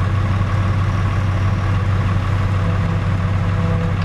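Fiat 110-90 tractor's six-cylinder diesel engine idling steadily with an even low rumble.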